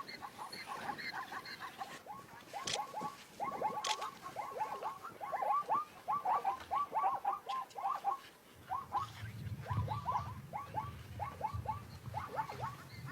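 A small animal squeaking: quick, short, falling chirps, several a second, in uneven runs, with a low rumble joining about two-thirds of the way in.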